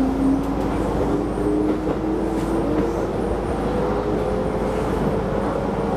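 Keisei Line electric train running on the track, a steady rumble of wheels on rail under a whine from its traction motors that climbs slowly in pitch as the train picks up speed. Heard from inside the front car.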